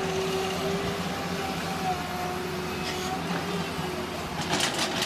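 Radio-controlled model vehicle running, with a steady motor whine over a noisy background and short hissing bursts near the end.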